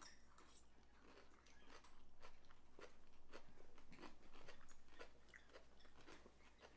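Faint chewing of a crunchy gelatin salad of beets and shredded cabbage, heard as irregular small crunches.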